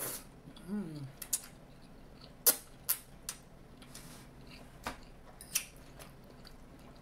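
Close-miked eating of a mouthful of lo mein noodles: a short hum with a falling pitch about a second in, then a handful of sharp, separate wet clicks and taps from chewing, spread over the rest.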